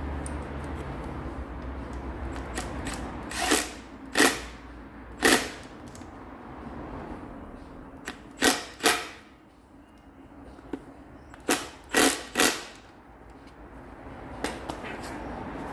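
About eight short, sharp mechanical bursts of work on metal parts, in three groups (two near 3.5 to 4 seconds, one near 5 seconds, and clusters near 8.5 and 12 seconds), over a steady low hum.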